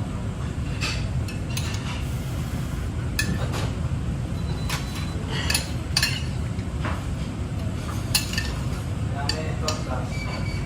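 Metal utensils and dishes clinking and knocking now and then, a dozen or so short sharp clinks, some ringing briefly, over a steady low rumble.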